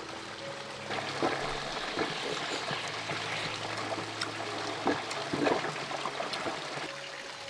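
Water trickling and running, swelling about a second in, with a few sharp clicks through it.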